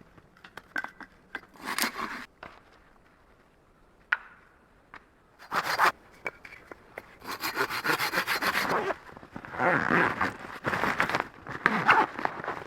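Handwork noise: scattered clicks and knocks, then, from about halfway in, a run of rasping, scraping strokes.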